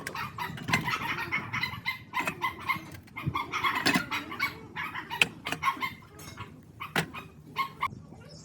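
Chickens clucking, with scattered sharp clicks and knocks throughout.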